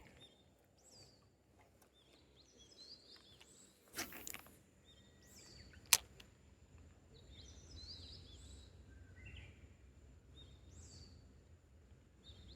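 Birds calling repeatedly with short high chirps over a quiet outdoor background. There is a brief swish about four seconds in and a single sharp click about six seconds in.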